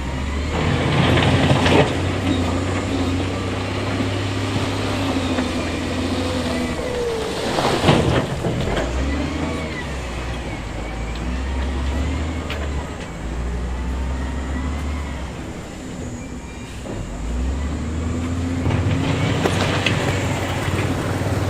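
Diesel engines of heavy earthmoving machinery running and working under changing load, with the engine note rising and falling. A loud sudden burst about eight seconds in stands out above the engines.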